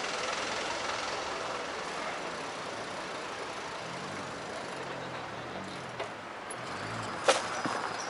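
A passing train's rushing noise, fading steadily as it moves away, with a low wavering hum joining about halfway through. A single sharp click comes near the end.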